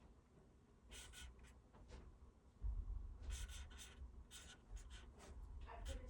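Hand-writing on the side of a furnace: faint, scratchy pen strokes in short bursts, about a second in, again from the middle on and near the end, as the next filter-change date is written. A low rumble sits underneath from about halfway.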